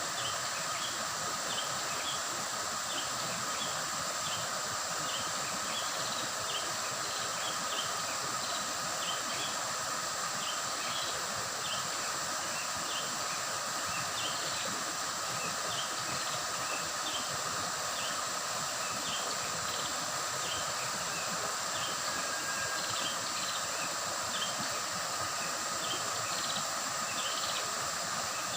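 Shallow river water flowing and babbling steadily, with short high chirps repeating about once or twice a second and a constant high thin drone over it.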